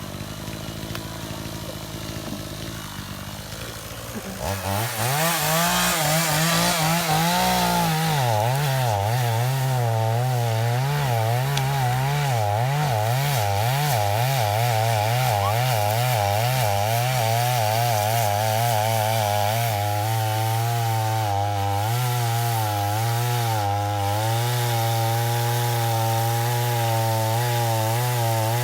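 Chainsaw throttling up about four seconds in and then cutting wood, its engine note dipping and wavering as the chain works through the cut.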